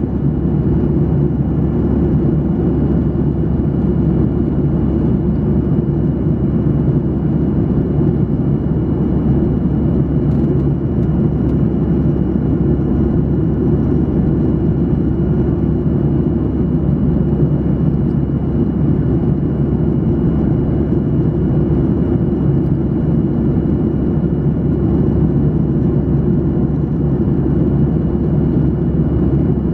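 Steady cabin noise of a Boeing 737-800 in flight: a low, even rumble of airflow and engines, with a faint steady high tone above it.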